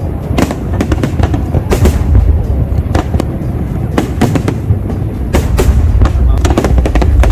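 Fireworks display: shells bursting in quick succession, many sharp bangs over a continuous low rumble, with crowd voices underneath.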